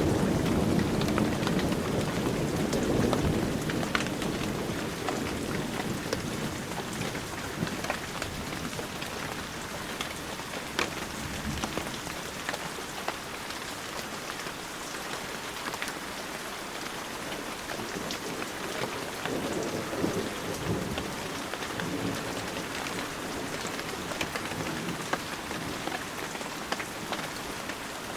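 Heavy rain falling steadily, with individual drops ticking sharply on nearby surfaces. A low roll of thunder fades away over the first few seconds, and a fainter rumble swells about twenty seconds in.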